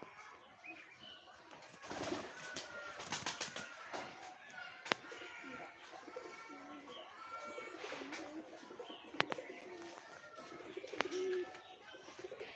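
Birds calling: low cooing and many short higher chirps, with a few sharp clicks.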